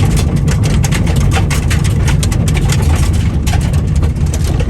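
Car driving fast over a road of loose stone chippings: a steady low rumble of engine and tyres, peppered with many irregular sharp ticks of chippings being flung up against the car.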